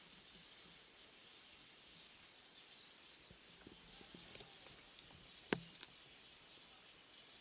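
Faint outdoor ambience with distant bird chirping, and a single sharp pop about three-quarters of the way through, followed by a smaller one: wood crackling in a burning stainless twig stove.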